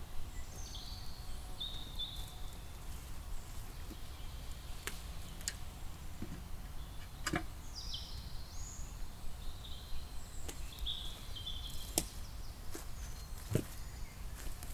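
Forest birdsong: short high whistled phrases that fall in pitch come near the start and again about two-thirds of the way through. Between them there are scattered sharp clicks or snaps over a steady low rumble.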